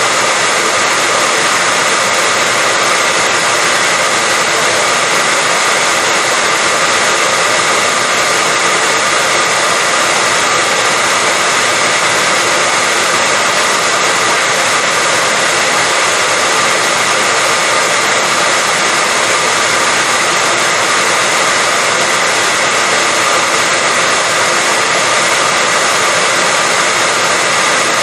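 Hair dryer running continuously at a steady speed: a loud, even whoosh of blown air with a faint high whine from its motor.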